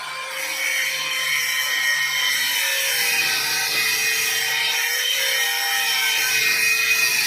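A small power tool running under load: a steady whine with a hiss, its pitch wavering slightly.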